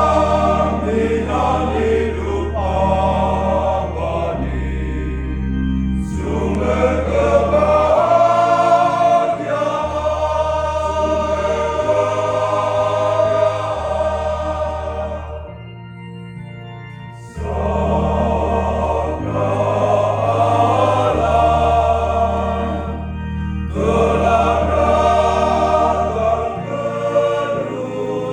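Church choir singing a hymn in phrases over steady bass accompaniment, with a brief lull about two-thirds of the way through before the singing comes back in.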